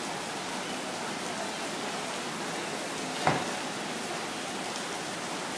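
Steady hiss of rain on wet pavement, with a single thump of a taxi's rear passenger door shutting a little over three seconds in.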